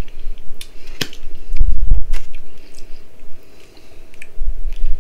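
A person biting into and chewing a saucy barbecue chicken wing, with several wet mouth clicks and smacks. Two low thumps come near the middle and near the end.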